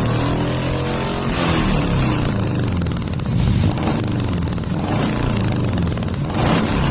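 Daihatsu Gran Max pickup's engine breathing through an aftermarket 4-3-2 header, coiled pipe and AJN GT01 racing muffler, being revved in repeated throttle blips. The pitch falls back at first, then climbs and drops several times, with louder surges about a second and a half in and near the end.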